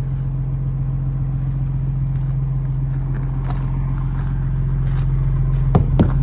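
Semi truck's diesel engine idling steadily while it warms up on a cold morning. A few sharp knocks come near the end.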